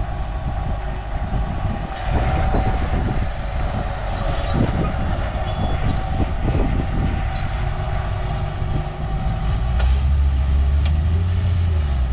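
Heavy diesel machinery engine running steadily, with a few sharp knocks near the middle. The low rumble grows louder near the end.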